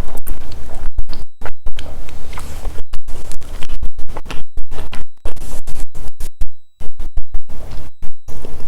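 Harsh crackling and scratching noise from a badly connected microphone, cutting out abruptly many times, with one longer dropout about two-thirds of the way through.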